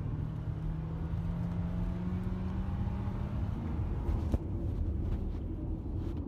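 Car engine and road noise recorded by a dash cam while driving: a steady low hum and rumble, with a single sharp click about four seconds in.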